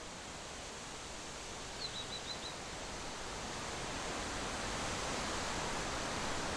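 A steady rushing noise that slowly grows louder, with a bird calling a short run of four quick high chirps about two seconds in.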